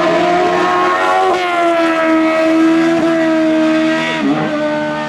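Race car engine held at high revs during a hillclimb run, steady in pitch. The pitch steps down slightly about a second in, and dips sharply and climbs back a little after four seconds.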